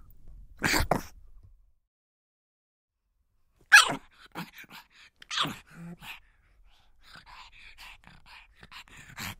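A pug barking: one bark just under a second in, then after a pause a sharp bark and a couple more. These are followed by a run of quick, quieter yips and whimpers near the end.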